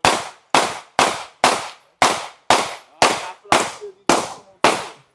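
A semi-automatic firearm fired in a steady string of single shots, about two a second, roughly ten shots, each with a short ringing tail.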